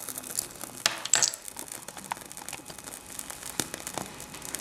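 Small scattered crackles and clicks from a paraffin-soaked tea bag catching fire and starting to burn, with a slightly louder crackle about a second in.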